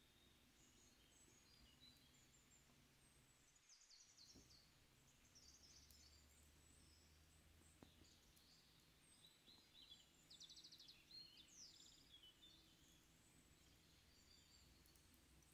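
Near silence with faint wild birdsong: scattered high chirps and short calls, and a rapid trill about ten to eleven seconds in.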